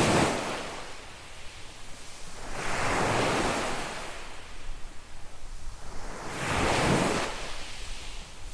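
Small waves breaking and washing up a sandy beach, one surge every three to four seconds: one at the start, another about three seconds in and a third about seven seconds in.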